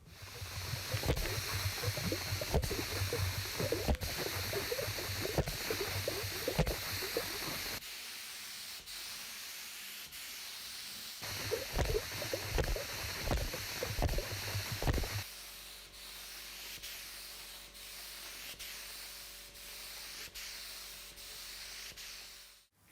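Hand rubbing or sanding strokes on a workpiece, in two spells with a short pause between them. They stop about two-thirds of the way through, leaving a faint steady hum with light ticks until a sudden cut near the end.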